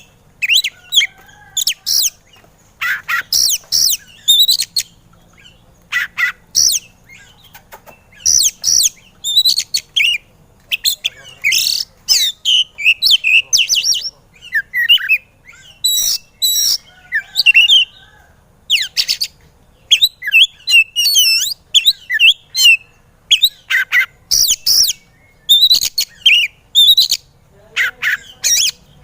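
Oriental magpie-robin (kacer) singing in an excited, fired-up way: loud, quickly varied whistled and chattering phrases in bursts of about a second, with short pauses between them.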